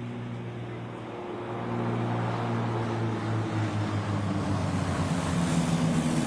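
Light propeller aircraft's piston engine running with a steady drone, getting louder about two seconds in.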